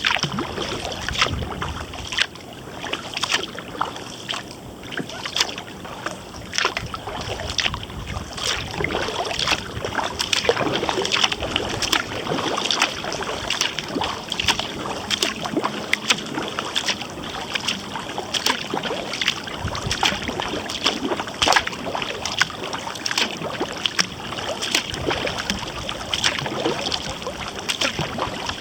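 Kayak paddling: the paddle blades dipping into and pulling through the water in turn, with repeated splashes and drips.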